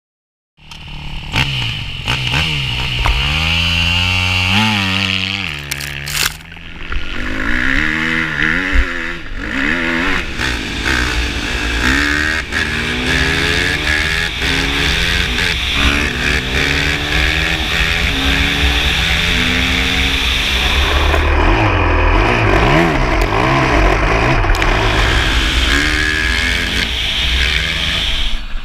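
KTM 250 SX-F motocross bike's four-stroke single-cylinder engine revving hard, its pitch rising and falling again and again as the throttle is worked and the gears change.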